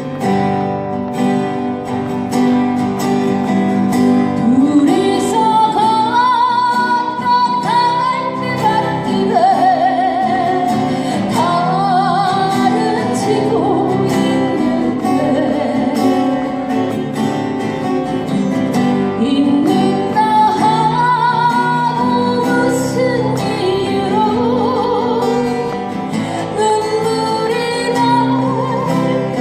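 Strummed acoustic guitar accompanying a woman singing a Korean folk ballad; the voice comes in about four seconds in and holds long notes with vibrato.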